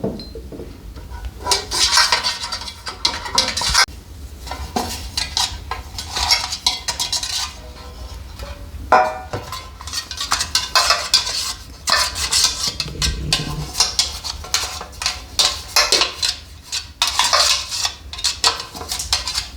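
Hard objects clattering and scraping, like pots, dishes and utensils being handled, in irregular spells of a second or two with short pauses.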